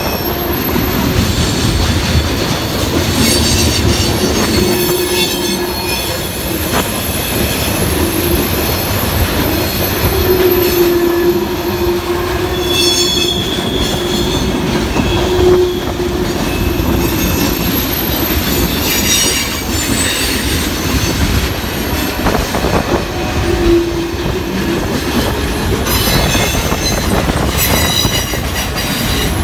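Norfolk Southern freight train's cars rolling past: a loud, steady rumble and clatter of steel wheels on rail, with thin, high wheel squeals that come and go.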